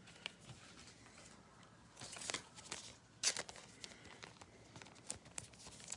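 Faint crinkling and tearing of a trading card pack's foil wrapper, with light clicks and rustles of cards being handled; the loudest rustles come about two and three seconds in.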